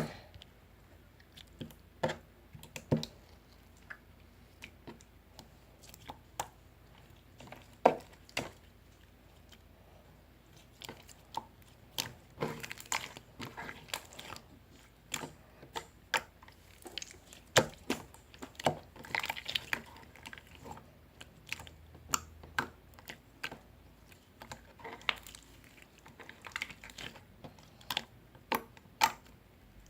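Slime being worked by hand: irregular sticky clicks and pops, with some longer squishing stretches.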